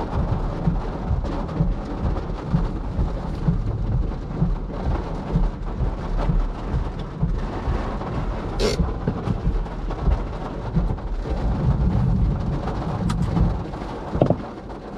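Heavy rain drumming on a Nissan Leaf, heard from inside the cabin as a dense, uneven low rumble. A sharp click comes a little past halfway and a couple of fainter ones near the end.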